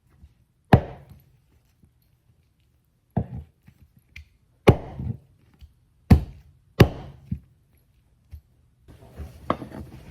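Knife chopping food on a cutting board: about five heavy single chops at uneven intervals, then a quicker scatter of lighter knocks near the end.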